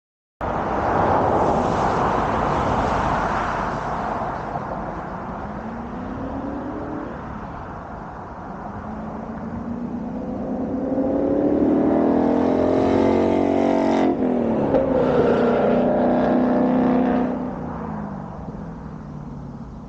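Ford Mustang GT's 5.0 V8 through a Borla ATAK cat-back active exhaust, accelerating with the engine pitch climbing. The pitch breaks off sharply about fourteen seconds in, the engine pulls on for a few seconds more, then the sound falls away.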